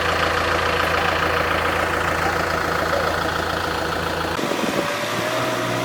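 Kubota tractor's diesel engine running steadily. About four seconds in, the engine note changes abruptly to a different, higher drone.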